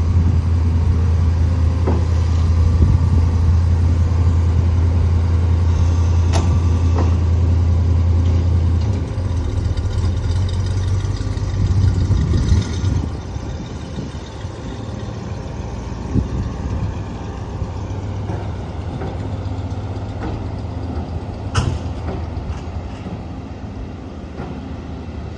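Truck engine running at a steady idle, its low hum easing off about nine seconds in and again around thirteen seconds, with a couple of sharp clicks.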